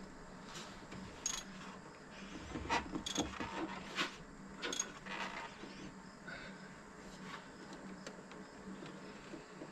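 Scattered light clicks and knocks over a faint steady hum.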